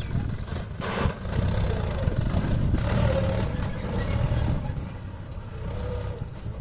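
Tractor diesel engine running with a steady low rumble, with two brief bursts of noise about one and nearly three seconds in.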